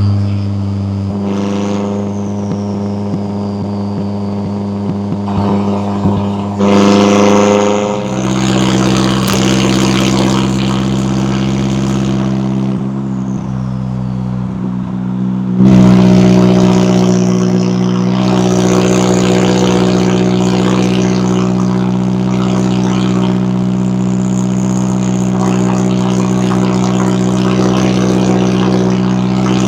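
McLaren 570S twin-turbo V8 running with a steady exhaust note. The note steps up about eight seconds in, steps up again and gets louder around sixteen seconds, then holds steady.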